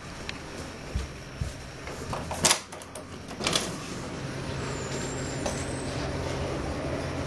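A few sharp knocks and clicks, the loudest about two and a half seconds in, then a steady low mechanical hum sets in about four seconds in.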